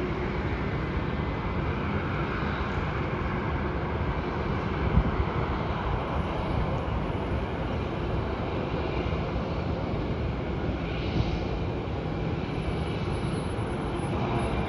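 Jet airliner engines heard from a distance, a Boeing 737 on its takeoff run: a steady rush of engine noise that neither rises nor falls much.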